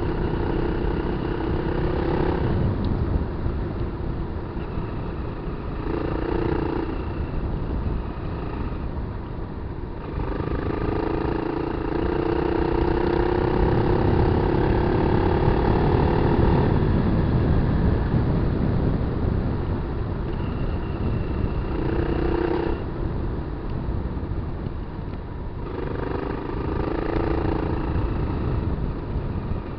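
Kawasaki KLR250's single-cylinder engine being ridden off road, the throttle opened and closed so the engine note rises and falls; it is strongest for several seconds near the middle, with shorter bursts before and after. A steady low rumble runs underneath.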